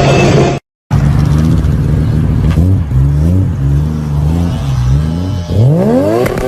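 Loud car engine and exhaust. It holds steady high revs, cuts out briefly just under a second in, then blips the throttle up and down several times and revs sharply upward near the end.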